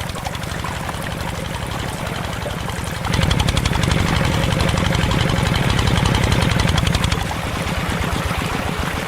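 Small engine of a homemade miniature tractor running with a rapid, even beat, getting louder about three seconds in and easing back down about four seconds later.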